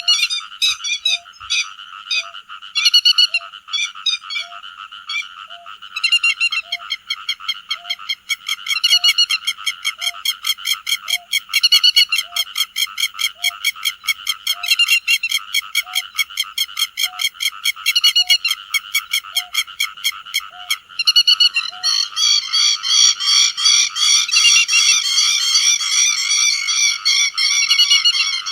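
Grey-headed lapwings calling in a dense, continuous stream of sharp repeated notes, looped as a flock-calling lure. A steady low note repeats about every 0.7 s beneath them, and stops about 22 seconds in as the high calls grow denser.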